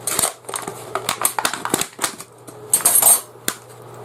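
Steel tent pegs being handled in their packaging: a run of light metal clicks and clinks, with a louder rustle of packaging about three seconds in.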